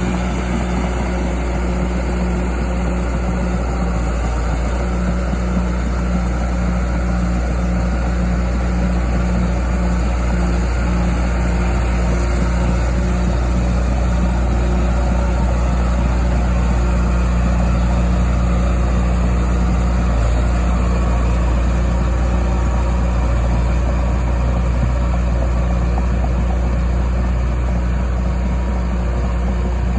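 John Deere 450G crawler dozer's diesel engine running steadily at an even, low drone with no change in throttle.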